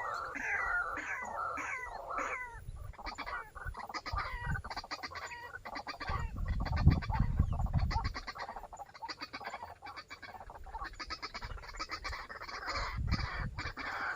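White-breasted waterhen calls: a run of repeated falling croaks, about two a second, for the first couple of seconds, then fast clicking, chattering notes. A low rumble comes in around the middle.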